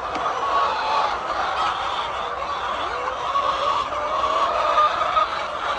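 A large flock of chickens calling and clucking all at once: a dense, continuous chorus of many overlapping calls.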